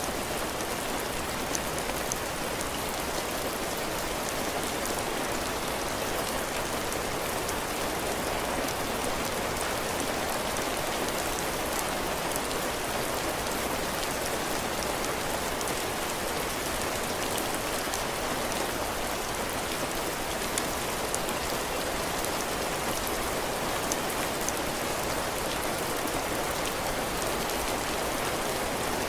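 Heavy, steady rain falling on a cabin porch roof and the ground, with faint scattered drop ticks.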